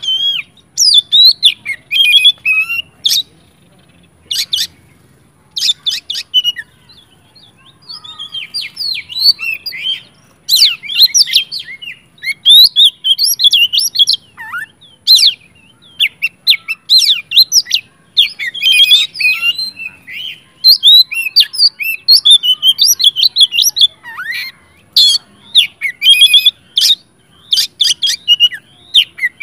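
Oriental magpie-robin singing a loud, fast, varied song of chirps, whistles and harsh notes in dense bursts with short pauses: the full, insistent song of a bird in fighting mood.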